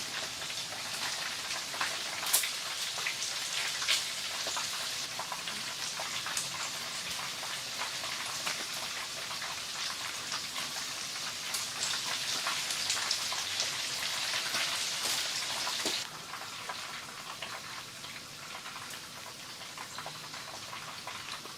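Steady rain, with many separate drops heard striking a surface. About sixteen seconds in the sound suddenly becomes quieter and duller, then carries on.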